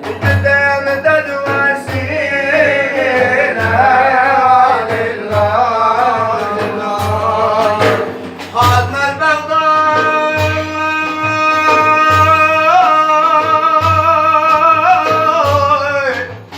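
A man singing madih, a religious praise song, in long held notes with ornamented wavering pitch, over a steady low drum beat.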